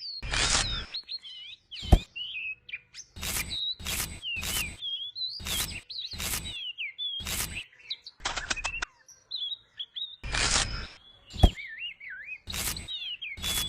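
Small birds chirping, with varied twittering notes throughout. These are cut across by a string of short noisy strokes, about one a second, and two sharp knocks, one about two seconds in and one near the end.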